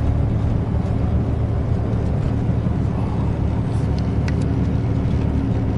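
Truck's diesel engine running steadily under way, a constant low hum with road noise, heard from inside the cab.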